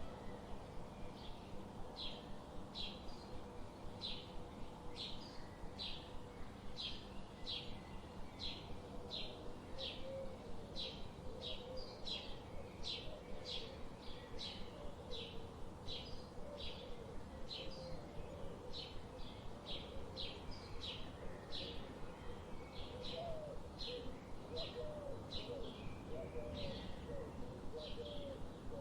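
Forest ambience: a bird chirping in a steady repeated series of short high calls, about two a second, over a low background hiss. Softer, lower warbling notes come in during the second half.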